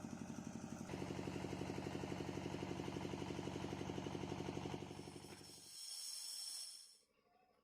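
An engine idling with a steady, rapid pulse, which cuts off about six seconds in. A brief high hiss follows, then near silence.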